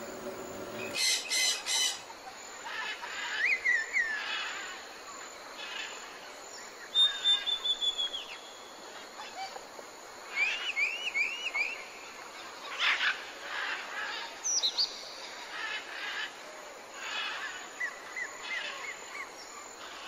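Several different birds calling in a jungle: short whistled notes and glides overlapping over a steady background hiss. About seven seconds in comes a falling run of high notes, a few seconds later a quick series of four rising notes, and near the end a soft trill.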